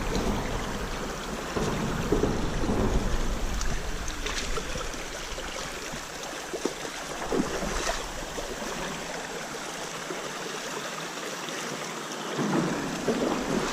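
Creek water running, with a few splashes and sloshes as someone wades through it.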